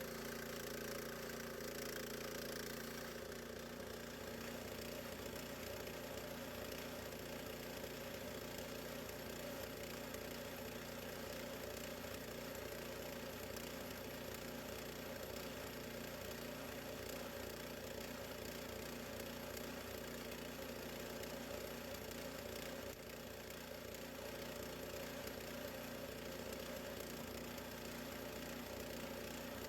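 Gasoline engine of a portable bandsaw sawmill running steadily, its note changing about three seconds in and then holding even.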